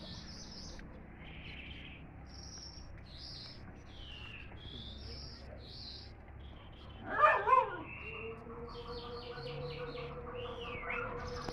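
Songbirds chirping and singing in short, repeated high notes. About seven seconds in there is one brief, loud call that slides in pitch, and from about eight seconds a steady hum runs underneath.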